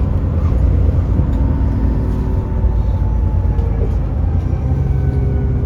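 Alexander Dennis Enviro400 double-decker bus running under way, with a heavy, steady low engine drone. A faint whine slowly falls in pitch over a couple of seconds.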